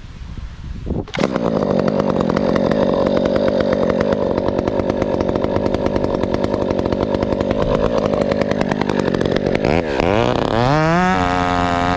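Husqvarna 372XP chainsaw with a ported muffler running at full throttle in a cut, coming in suddenly about a second in. About ten seconds in its pitch drops and wavers up and down as the load and throttle change.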